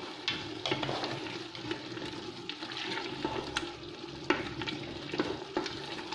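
Potatoes, carrots and onion frying with tomato paste in oil in an aluminium pressure cooker, a steady sizzle, while a spoon stirs them with irregular scrapes and knocks against the pot.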